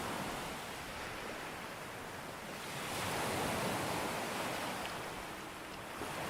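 Ocean waves breaking on a beach: a steady rushing wash that swells as a wave comes in about three seconds in and eases off near the end.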